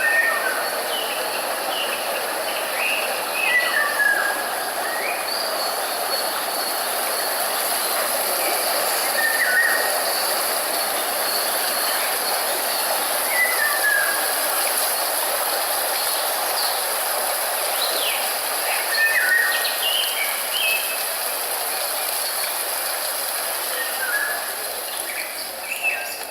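A steady rushing hiss of nature-sound or white-noise ambience, with a bird giving short chirps every few seconds over it.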